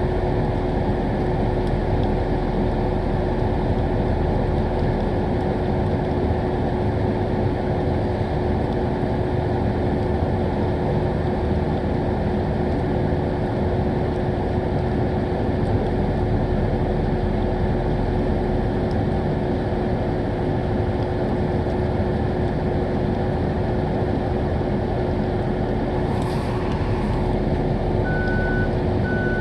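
A vehicle engine running steadily close by, with a constant hum under it, and a short hiss a few seconds before the end. Near the end a vehicle's reversing beeper starts, beeping about once a second.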